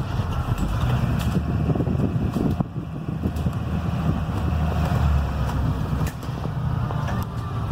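Blue Bird Vision school bus on the move, heard from inside the cabin: the low drone of its Cummins B6.7 diesel and the road noise, with scattered clicks and rattles.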